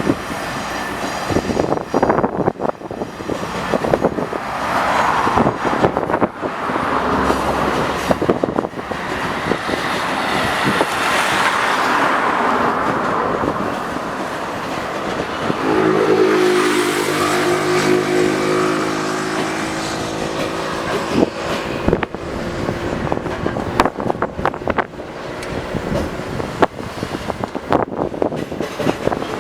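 Freight train rolling past, its wheels clicking over rail joints under a constant rumble of wagons. About halfway through, a steady low hum rises for several seconds.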